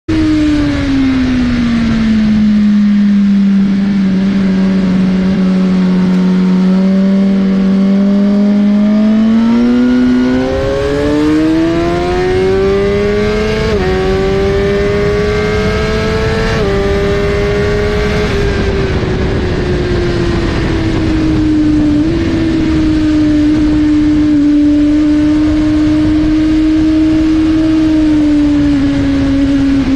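Suzuki GSX-R1000R's inline-four engine heard from on the bike at speed, over a rush of wind. The engine note drops and holds low for several seconds, then climbs through the revs with two quick upshifts around the middle, and afterwards settles and eases off gradually.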